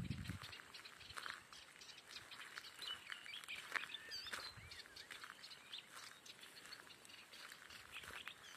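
Birds chirping: many short, faint chirps and whistles, with a brief low rumble at the very start.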